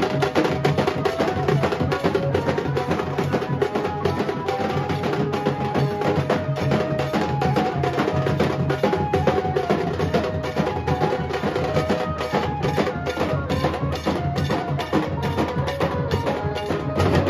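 Nasik dhol drums beaten in a fast, dense, driving rhythm, with a melody line held above the drumming.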